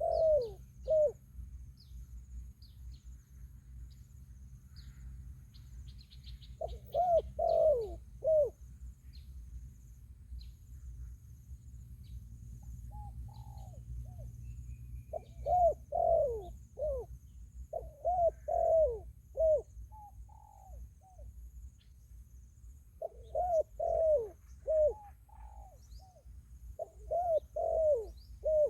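Spotted dove cooing in repeated phrases of several short, falling coos, with pauses of a few seconds between phrases. Faint chirps of small birds and a steady high insect trill run underneath.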